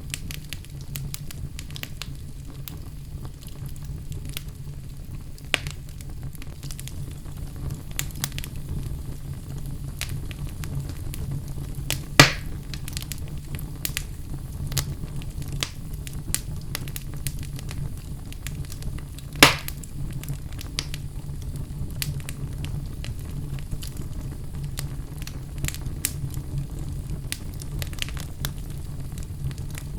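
Wood fire burning in a fireplace: a steady low rumble of flames with scattered small crackles, and two louder sharp pops, about twelve seconds in and again about seven seconds later.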